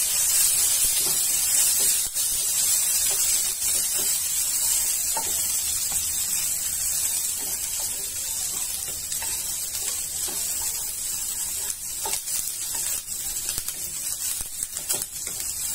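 Sliced onions, curry leaves and dried red chillies sizzling in hot oil in a frying pan, a steady high hiss, with now and then a light tap or scrape of the spatula stirring them.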